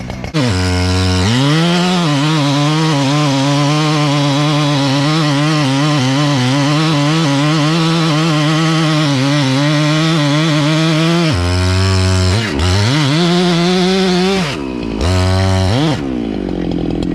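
Husqvarna 395 XP two-stroke chainsaw revving up and cutting into a white oak trunk, held at full throttle under load for about ten seconds, its pitch wavering as the chain bites. It then drops off and revs up again twice in quick succession as the face notch is worked.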